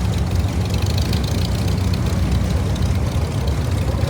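Engine of a 1948 Case LA propane tractor running steadily at low speed, a deep even rumble.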